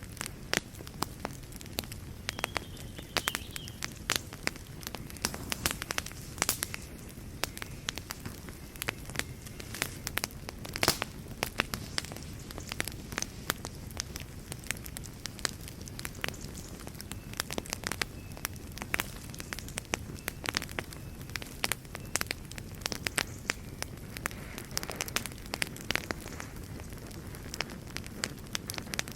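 Wood fire burning in a fireplace: constant irregular crackling and popping over a low, steady rumble of the flames.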